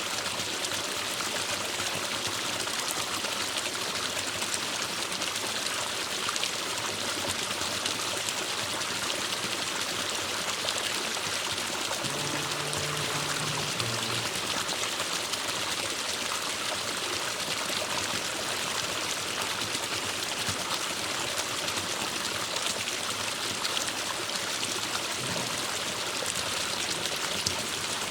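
Forest stream flowing steadily, an even rushing and trickling of water.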